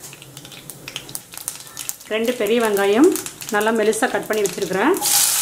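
Whole seeds crackling faintly in hot oil in a frying pan. About five seconds in, loud steady sizzling starts as sliced onions go into the oil.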